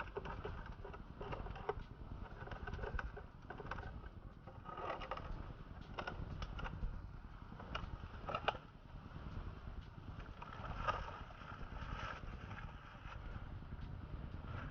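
Scattered light clicks and knocks of hand tools and parts being handled while working on a motorcycle's oil drain bolt, over a faint low background hum.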